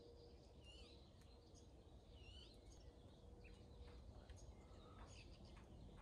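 Quiet outdoor ambience: scattered faint bird chirps and short whistles over a low steady rumble.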